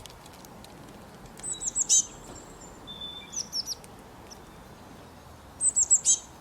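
Songbird singing: two quick runs of high, sharp chirps, about a second and a half in and again near the end, with a few softer chirps and a short whistle between, over a steady outdoor hiss.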